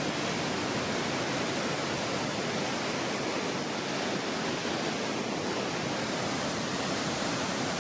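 High Falls, a waterfall in a rock gorge, rushing steadily: an even, unbroken noise of falling water.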